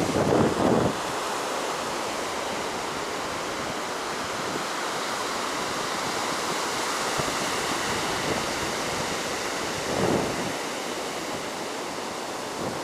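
Heavy surf washing steadily onto the beach, the waves high after a typhoon. Wind buffets the microphone briefly at the start and again about ten seconds in.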